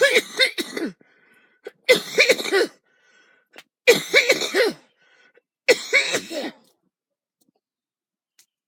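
A woman coughing in four fits of several quick, harsh coughs each, about two seconds apart: a chesty cough from a cold that has settled in her lungs. The coughing stops about two-thirds of the way through.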